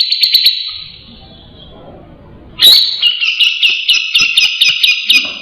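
Grey-cheeked bulbul (cucak jenggot) singing: a phrase that fades out within the first second, then, after a short pause, a loud run of fast repeated high notes, about four a second.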